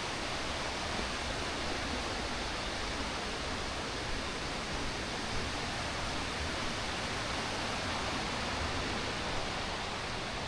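Steady rush of falling and flowing water, an even hiss with no breaks.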